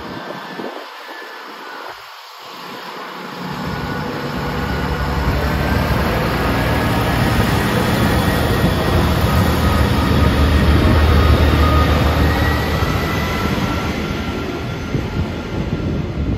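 Diesel train passing close by with a deep rumble. It grows louder from about three seconds in, is loudest around ten to twelve seconds in, then eases slightly.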